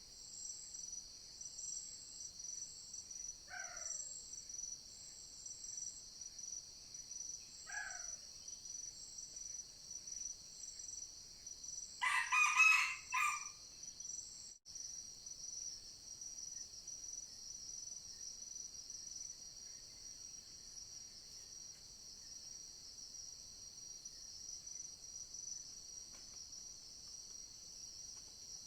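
Red junglefowl rooster crowing: one loud crow about twelve seconds in, with two fainter short calls earlier, over a steady high drone of forest insects.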